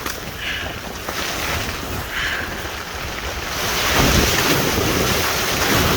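Strong wind buffeting the microphone in a rainstorm, a rough rumbling rush of wind and rain that gusts louder about halfway through.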